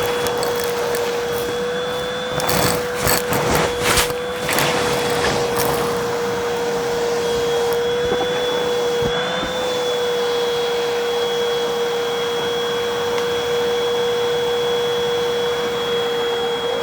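Vacuum cleaner running with a steady motor whine. From about two to six seconds in comes a burst of crackling and rattling as crunchy debris is sucked up.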